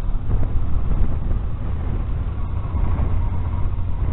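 Motorcycle engine running as the bike is ridden through soft desert sand, a steady dense rumble strongest in the low end.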